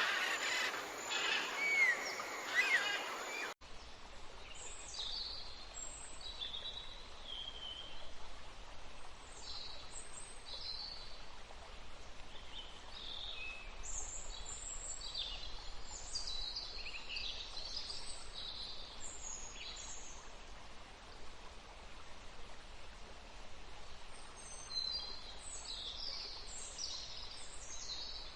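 Wild birds chirping and calling. A louder, busier stretch of song cuts off abruptly about three and a half seconds in. After it come sparser, quieter bursts of short high chirps and trills over a faint steady background hiss.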